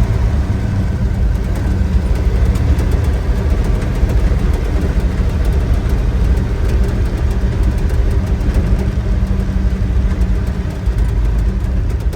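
Old truck's engine and road noise heard from inside the cab while driving, a steady low drone.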